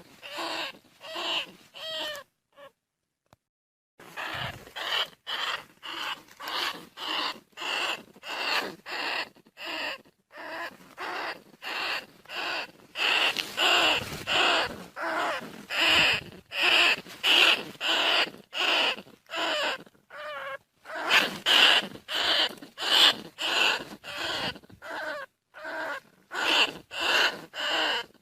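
Bandicoot rat squeaking calls repeated over and over, about two short squeaks a second, with a pause of under two seconds a few seconds in. The repeating pattern is typical of a looped call played as a lure to draw rats in.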